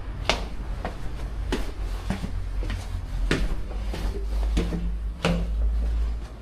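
A series of sharp knocks and clacks, about seven, spaced unevenly over a steady low rumble.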